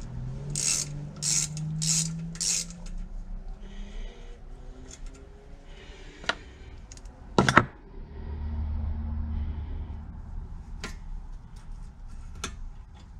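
Metal tools and engine parts being handled during teardown of a 12 hp Briggs & Stratton engine: four short scraping strokes in quick succession near the start, scattered light clinks, and a sharp metal knock about seven and a half seconds in.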